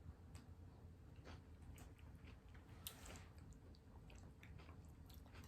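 Faint close-up chewing: soft mouth clicks and smacks every half second or so, with a sharper click about three seconds in, over a low hum.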